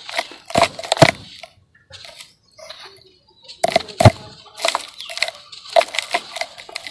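Dry sand-cement chunks crunching and crackling as they crumble, in clusters of sharp cracks. There is a quieter pause of about two seconds in the middle, and the loudest crack comes about four seconds in.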